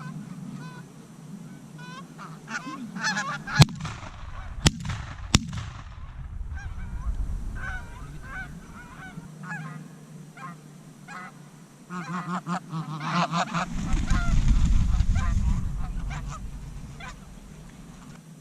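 A flock of geese honking repeatedly. Three sharp cracks come close together about four to five seconds in, and a low rumble swells and becomes the loudest sound in the second half.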